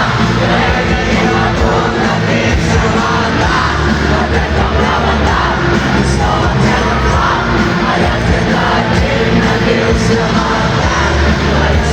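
Live rock band playing loudly through an arena sound system, with sung and shouted lead vocals over driving guitars and drums.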